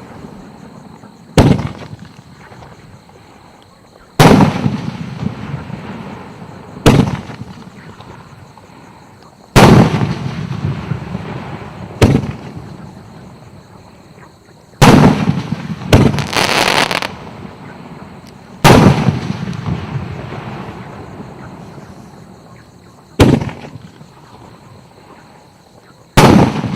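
Professional 100 mm firework battery firing its shells one at a time: about ten loud bangs a few seconds apart, each trailing off in a long rolling echo. About two-thirds through, two bangs come close together with a short burst of crackling.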